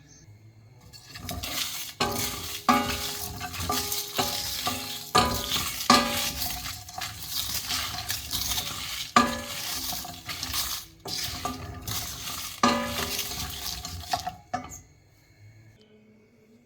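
Whole spices (cumin, coriander and fenugreek seeds, dried red chillies) being stirred as they dry-roast in a pan: a steady scraping rattle with repeated sharp clinks of the utensil against the pan.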